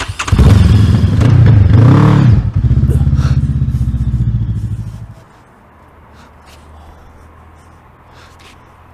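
Car engine revving hard and pulling away, loud for about five seconds with its pitch rising and falling early on, then dropping suddenly to a low steady hum.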